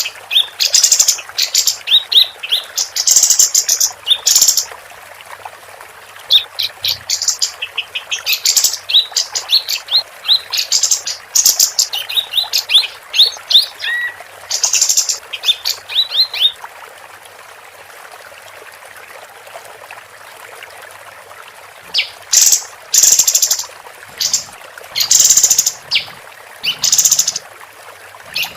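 Female kapas tembak singing: loud phrases of rapid, stuttering high chirps, repeated one after another. A pause of a few seconds falls about two-thirds of the way in, then the phrases resume.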